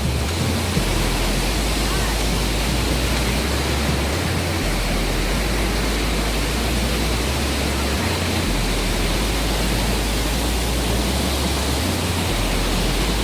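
The Rhine Falls, a large waterfall, rushing and pouring in a steady, loud roar of water close by.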